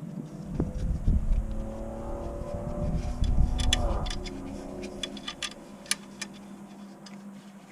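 A motor running for about three seconds, its pitch falling as it winds down, followed by a run of sharp metallic clicks and taps.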